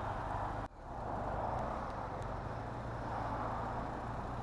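Motorcycle on the move in traffic: steady wind and road noise over a low engine hum, with a brief sharp dropout in the sound about a second in.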